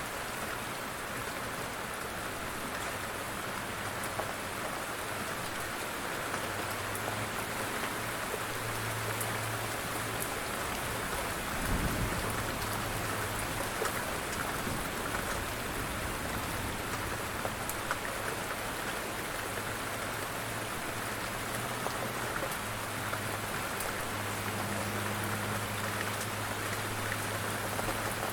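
Steady light rain falling, a dense hiss with scattered drop ticks, over a low hum that comes and goes. A brief low rumble about twelve seconds in.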